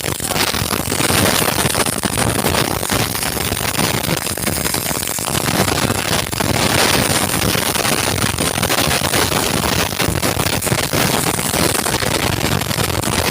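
Electric arc welding: the arc crackling and sputtering steadily against steel plate.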